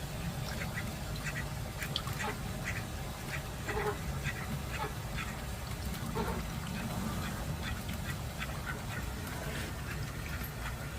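Call ducks quacking in short calls, over and over, with a steady low rumble underneath.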